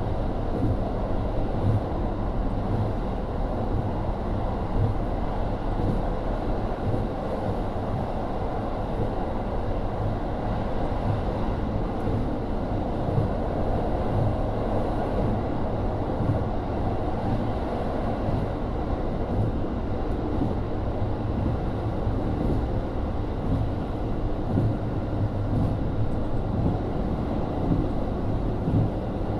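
Onboard running sound of a JR Hokkaido KiHa 40 series diesel railcar (Type 350) with its N-DMF13HZB diesel engine: a steady low rumble of engine and wheels on rail heard from inside the car.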